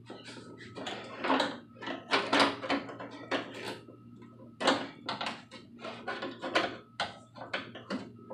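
Irregular clicks, taps and clunks of a metal window regulator and its motor being handled and fitted inside a car door, over a steady low hum.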